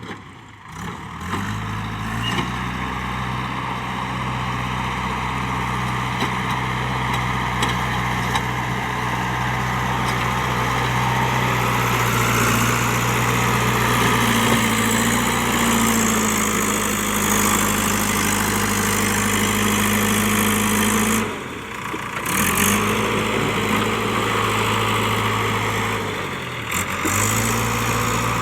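JCB 3DX backhoe loader's diesel engine running steadily while working, its pitch rising about halfway through. The sound drops out briefly twice in the last third.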